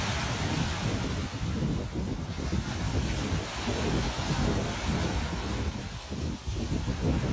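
Ocean waves on a beach with heavy wind buffeting the microphone: a steady rush of surf under a gusting low rumble.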